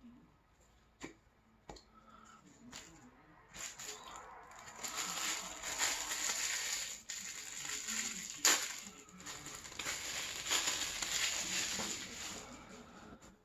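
A person chewing KFC coleslaw (shredded cabbage): a few soft mouth clicks, then from about three and a half seconds in a steady run of crunching chews that lasts until near the end, with one sharper click about eight seconds in.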